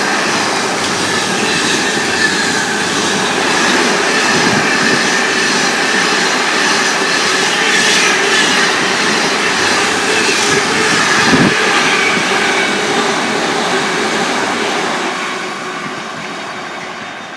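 Freight train of loaded container wagons rushing past close by, with steady wheel and rail noise, rhythmic clicking over the rail joints and a high wheel ring that slowly drops in pitch. It fades near the end.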